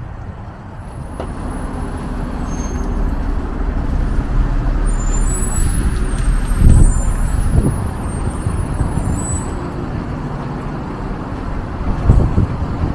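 City street traffic with a heavy vehicle running close by: its low engine rumble builds and then eases off. There are brief high-pitched squeals midway and a couple of thumps in the middle and near the end.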